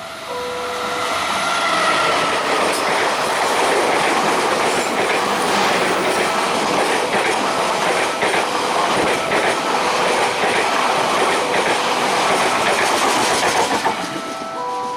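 A train passing over a level crossing, its wheels clattering on the rails; the noise builds over the first couple of seconds and drops away about a second before the end. The crossing's electronic warning signal, a repeating pattern of alternating tones, sounds faintly beneath it and comes through clearly again once the train has passed.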